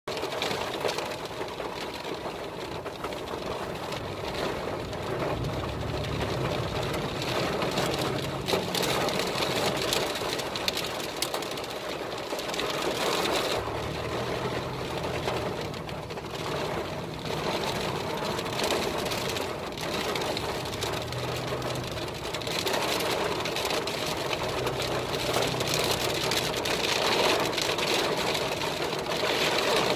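Heavy rain hitting a car's roof and windshield, heard from inside the moving car as a dense, steady patter, with a low engine hum that comes and goes.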